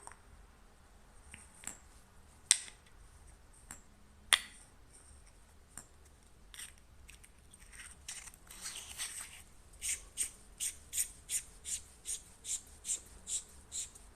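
Handling of a flashlight and its packaging: scattered sharp clicks and taps, two of them much louder, a brief rustle, then a run of about a dozen evenly spaced clicks at roughly three a second near the end.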